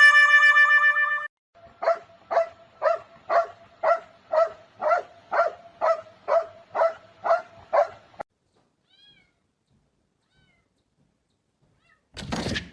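A cat meowing over and over in a steady rhythm, about two short meows a second, some thirteen in all, then stopping. A brief noisy burst follows just before the end.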